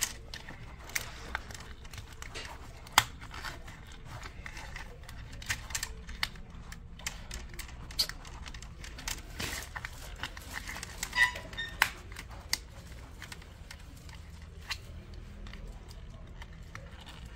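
Irregular sharp clicks and taps of a laptop's plastic housing and clips being pried and handled by hand, with a short squeak about eleven seconds in, over a low steady hum.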